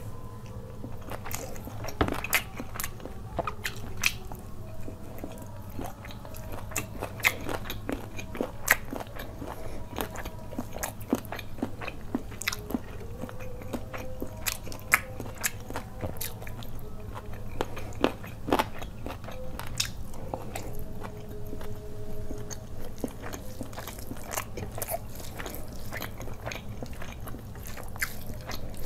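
Close-miked chewing and biting of mouthfuls of butter chicken and fried rice: frequent, irregular wet mouth clicks and smacks, with occasional crunches.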